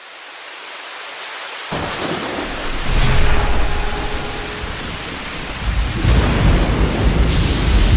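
A thunderstorm: steady rain hissing, with a low rolling rumble of thunder that comes in about two seconds in and grows louder.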